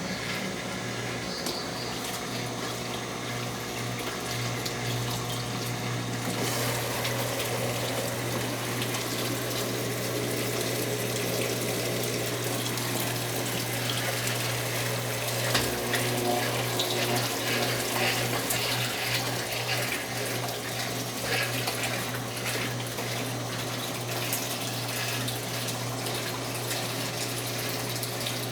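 Brastemp 9 kg washing machine moving water, with a steady low hum and water rushing through it that grows louder about six seconds in.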